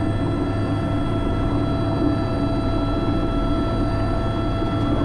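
Airbus H125 (AS350 B3) helicopter running steadily, heard from the cockpit: a constant rotor and single-turboshaft rumble with a steady high turbine whine on top.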